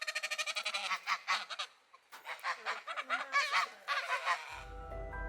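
Geese honking in quick repeated calls, a dense run and then, after a short pause, a second run. Background music begins about four and a half seconds in.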